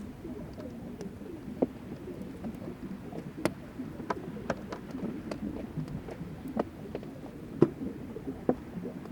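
Melting glacier ice on Fláajökull: irregular sharp pops and crackles, the loudest about three and a half seconds in and near the end, over a low gurgling of meltwater.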